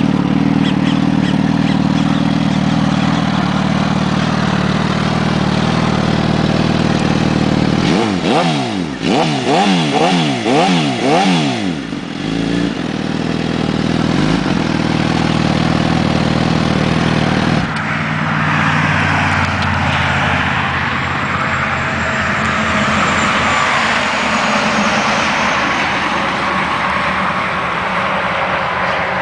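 Motorcycle engine running steadily, then revved up and down several times in quick succession. About 18 s in, the sound changes suddenly to a noisier hiss with the engine fainter underneath.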